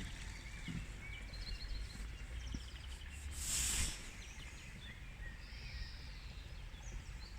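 Outdoor ambience of small birds chirping faintly over a low rumble, with a brief rush of hiss about halfway through.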